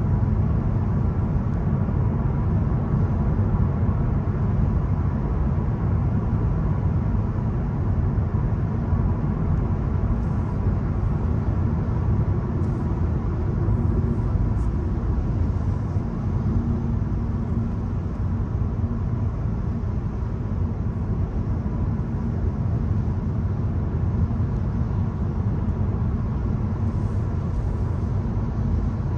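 Volkswagen Golf 1.0 TSI's three-cylinder turbocharged petrol engine and road noise while driving: a steady low rumble with no marked revving.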